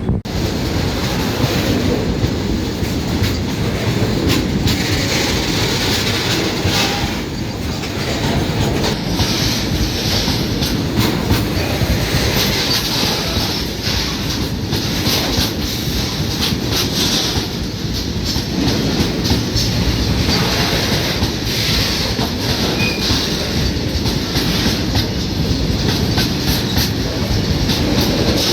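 A freight train of oil tank wagons rolling past at speed, its wheels clattering over the rail joints in a steady clickety-clack.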